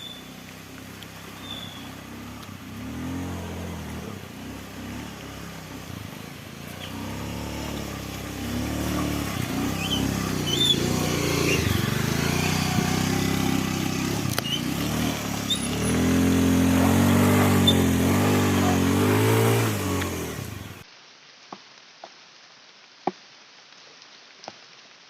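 A vehicle engine revving and labouring, its pitch rising and falling and growing louder, then cutting off suddenly about three-quarters of the way through. After that there are a few sharp clicks over a quiet background.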